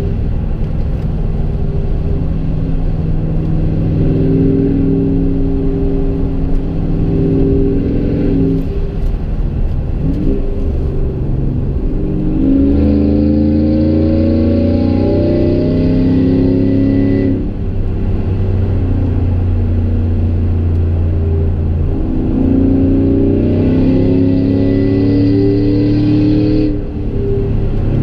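Chevy Silverado's 5.3L EcoTec3 V8 exhaust through a Gibson MWA muffler and Kooks long tube headers, heard from inside the cab while driving. Twice, about halfway through and near the end, the engine note climbs in pitch and grows louder under acceleration, then drops suddenly.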